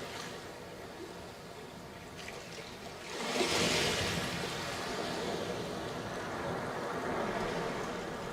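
Sea waves breaking on a sandy beach: a wave crashes about three seconds in, and its wash keeps running up the sand afterwards, slowly easing.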